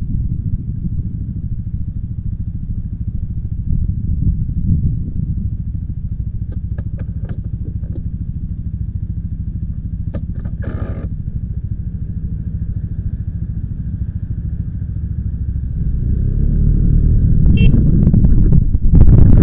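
Motorcycle engine running steadily, with a few short clicks partway through; it grows louder over the last few seconds.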